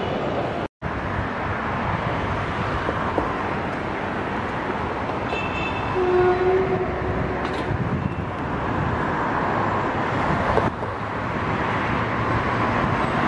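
Container freight train's wagons rolling past with a steady rumble and rattle. There is a brief steady high tone about six seconds in, and the sound cuts out for an instant just under a second in.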